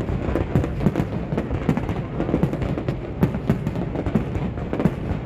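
Fireworks display: a rapid, continuous run of bangs and crackles, several a second, over a low rumble.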